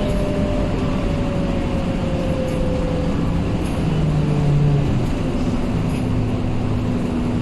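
Scania K230UB diesel city bus running, steady engine and road noise with a whine that falls slightly in pitch over the first three seconds.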